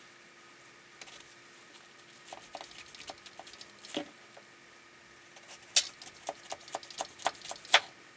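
Sharp taps and clicks, a few scattered at first, then a quick, even run of louder clicks at about four a second in the last two seconds.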